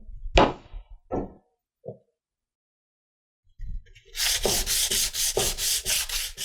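A few light knocks, then from about four seconds in, rapid back-and-forth hand-sanding strokes on wood, about five a second.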